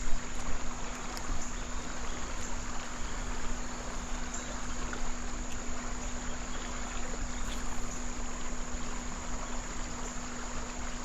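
Insects trilling steadily at a high pitch over the even rush of creek water, with a low steady hum beneath.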